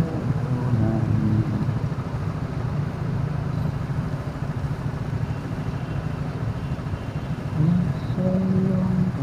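Steady engine and road noise of a car driving in city traffic, heard from inside the car.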